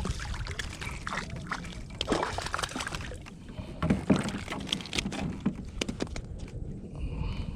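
Water splashing and sloshing with scattered clicks and knocks as a small hooked speckled trout is reeled in and landed at the side of a kayak.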